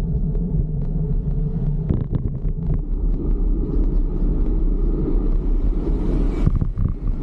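Steady low rumble of road traffic and riding noise picked up while cycling through city streets, with a few faint clicks.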